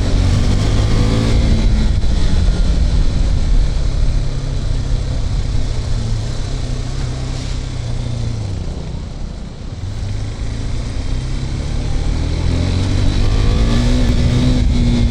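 KTM RC 390's single-cylinder engine through its stock exhaust while riding. The engine note holds, then drops as the bike eases off and slows, quietest about two-thirds in, then rises again near the end as the rider accelerates.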